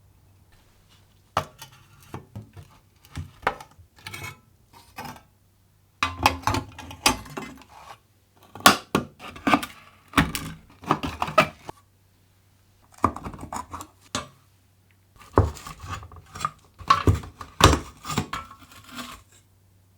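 Small metal parts clinking and rattling in short bursts of sharp clicks, in about five groups with pauses between them.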